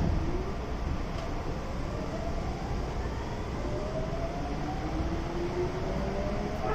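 Kintetsu 7000 series train's early-type Hitachi GTO-VVVF inverter whining as the train accelerates, its pitch gliding upward in several tones and dropping back to climb again near the end, over a steady rumble of wheels on rail inside the car. A single thud right at the start.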